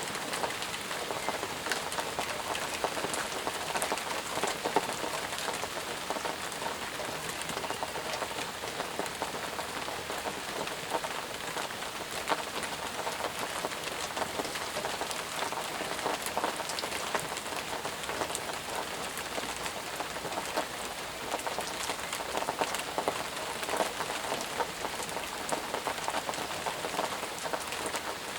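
Steady, heavy rain falling, a dense hiss with the fine patter of individual drops striking surfaces.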